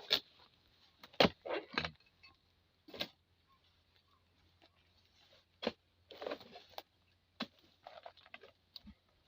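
Irregular sharp chopping knocks of a blade striking hard oil palm fronds, about ten strikes with rustling of the leaves after several of them; the loudest comes about a second in.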